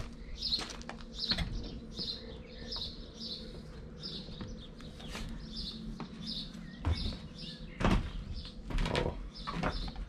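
A small songbird repeating a short high chirp, nearly twice a second, with a few dull thumps in the second half.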